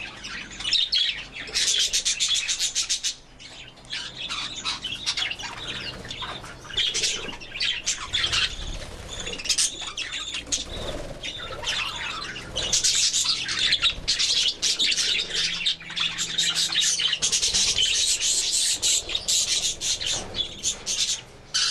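A flock of budgerigars chattering in an aviary: continuous warbling, chirps and squawks from many birds at once, with some wing flapping.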